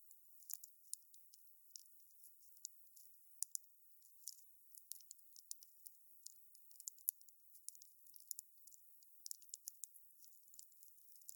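Wood campfire crackling faintly: a steady, irregular run of small sharp snaps and pops, several a second.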